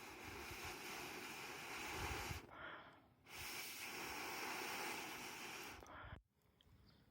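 Steady sizzling hiss of a campfire cookout, food and fire hissing over the wood fire, broken by a short drop about two and a half seconds in and cutting out near the end.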